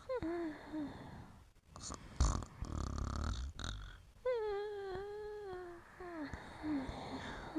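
A sleeping dog whimpering as it dreams: short, high, falling whines, then a longer drawn-out whine past the middle. A louder, rougher noisy stretch comes between about two and three and a half seconds in.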